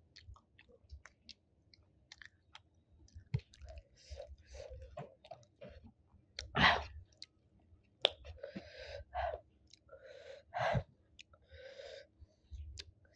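Close-miked chewing and wet mouth sounds of a person eating sticky rice and chicken curry by hand, with many small clicks and a few louder smacks, the loudest about six and a half seconds in.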